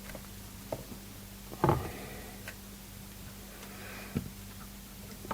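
A few scattered light clicks and knocks of small metal parts and tools being handled at a soldering bench, the strongest about a second and a half in, over a steady low hum.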